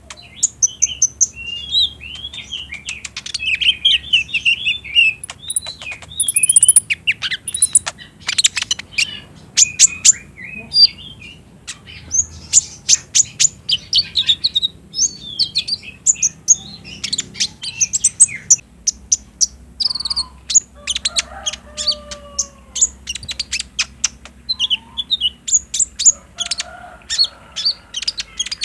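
Purple-throated sunbird (kolibri ninja) song: fast, high-pitched chattering 'trotol' twitter of sharp ticking notes and short trills in quick runs, used as a lure to set a kept bird singing. A few lower, falling whistles come about two-thirds of the way through.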